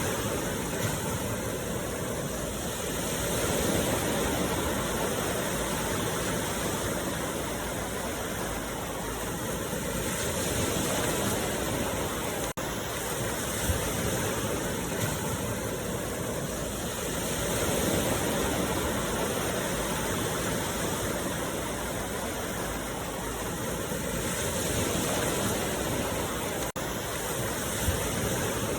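Ocean waves washing onto a beach, a continuous rush of surf that swells and eases roughly every seven seconds.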